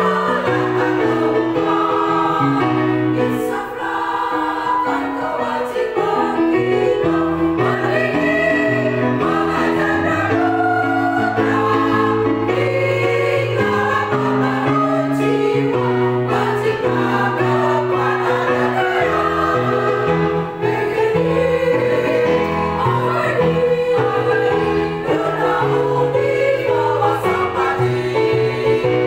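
Choral music: a choir singing held notes in changing chords, without a break.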